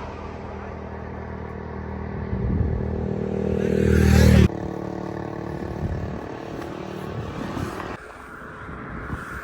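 Royal Enfield Continental GT 650's parallel-twin engine running on the road, growing louder over the first few seconds. The sound breaks off suddenly about four and a half seconds in and goes on at a lower, steady level, with another sudden drop about eight seconds in.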